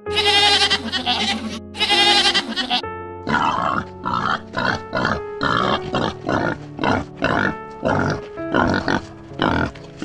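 A goat bleats twice in long, wavering bleats. Then wild boars grunt in a quick series of short grunts, about two a second, over background music.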